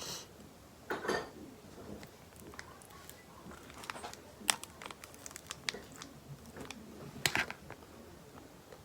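Close rustling and crinkling of paper or wrapping being handled, with scattered sharp crackles, the loudest about halfway through and again near the end.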